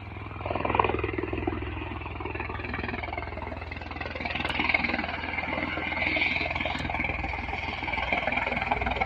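Steady vehicle engine and road noise: a continuous low hum under a rushing noise that swells about half a second in and again about four seconds in.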